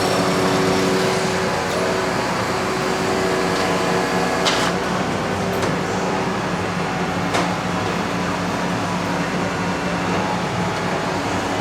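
Heavy vehicle engine running steadily at idle, with two short sharp clacks, about four and a half and seven seconds in.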